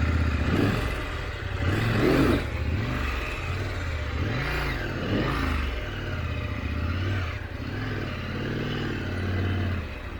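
KTM 890 Adventure's parallel-twin engine running, the revs rising and falling a few times, loudest about two seconds in.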